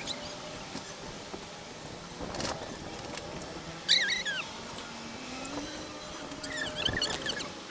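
Pet lovebirds chirping: one sharp chirp about four seconds in and a quick run of short chirps near the end, over a faint steady background hum.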